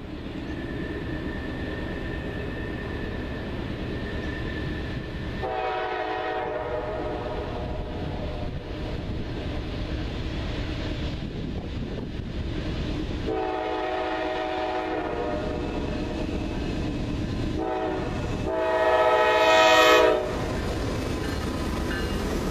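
Norfolk Southern diesel freight locomotives working upgrade with a steady low rumble, the lead unit sounding its air horn in the grade crossing pattern: two long blasts, a short one and a final long one, the last the loudest.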